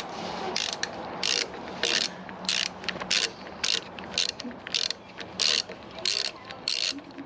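Hand socket ratchet wrench clicking in short, even back-and-forth strokes, about one every half second, working a bolt loose during engine teardown.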